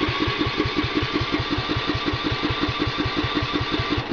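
Electric starter cranking the 12 hp overhead-valve Tecumseh engine of a mid-1980s Craftsman riding mower, with even compression pulses about eight a second; it stops near the end without the engine catching. The owner suspects no spark, possibly a bad spark plug.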